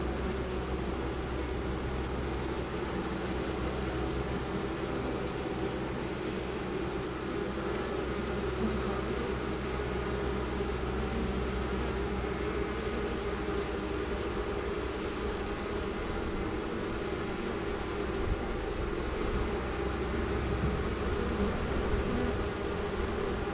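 Honey bees buzzing close by, a steady drone with no break.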